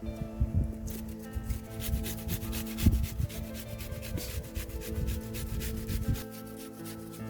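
Quick, irregular scraping and rubbing strokes that stop about six seconds in, over background music with steady held notes.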